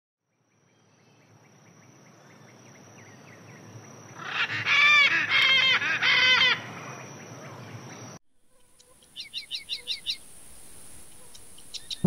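Wild birds calling: a loud series of harsh, arching calls about four seconds in, then, after a sudden cut, a quick run of about six short, high, falling chirps.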